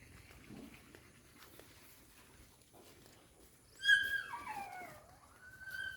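A dog whining: one loud high cry about four seconds in that slides down in pitch, then a shorter whine near the end that rises and holds.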